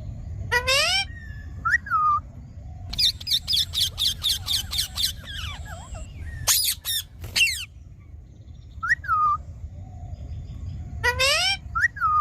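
Indian ringneck parakeet calling: a few separate rising squawks, a fast run of sharp chirps from about three to five and a half seconds in, then more shrill calls, over a steady low background rumble.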